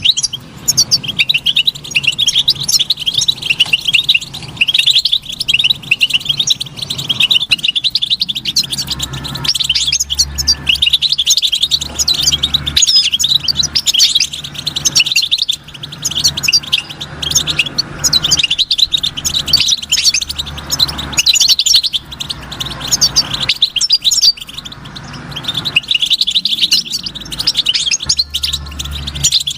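European goldfinch singing a long, fast twittering song of rapid chirps and trills with only brief pauses, over an intermittent low hum.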